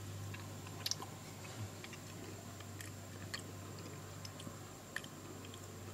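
A person faintly chewing a bite of soft, juicy Garden Peach tomato, with small wet mouth clicks now and then.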